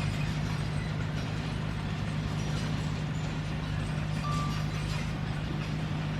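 Crawler bulldozer's diesel engine running steadily under load, a constant low drone.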